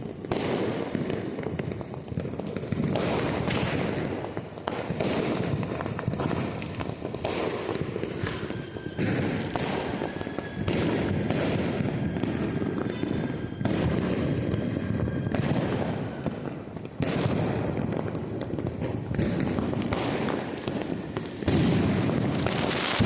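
Diwali firecrackers going off nonstop, many bangs and crackles overlapping with no pause. A faint steady whistle holds for several seconds in the middle.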